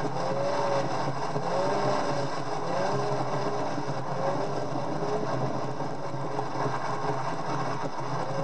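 Nissan 350Z's 3.5-litre V6 running at a steady pitch with road and wind noise, picked up by a camera on the outside of the car. A faint whine rises and falls about once a second.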